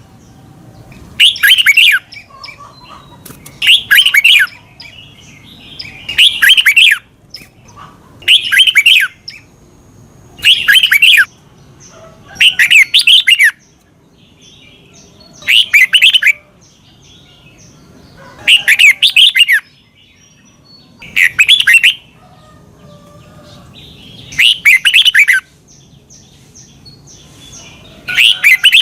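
Red-whiskered bulbul singing the same short, bright chirping phrase over and over, about once every two to three seconds.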